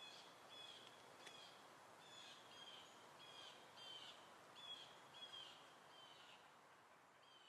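Near silence with a bird chirping faintly, a short call repeated about once or twice a second, and a single click about a second in.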